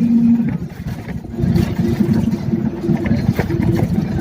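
A vehicle on the move, with engine and road rumble and scattered rattles. A steady pitched tone cuts off about half a second in, and the rumble swells again after about a second and a half.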